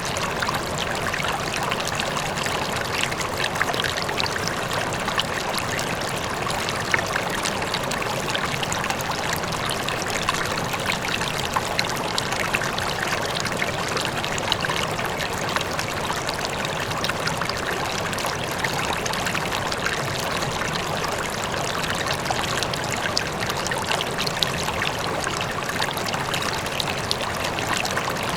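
River flowing steadily over rocks, a continuous rushing with small splashes and trickles, with a faint waterfall blended into it.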